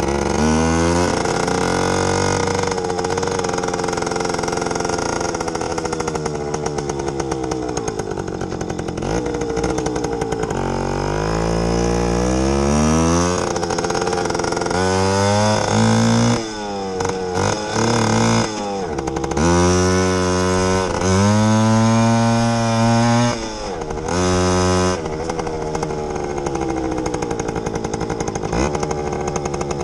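Yamaha YG5T Trailmaster's small two-stroke single-cylinder engine under way, revving up and dropping back again and again as the bike accelerates, shifts and eases off.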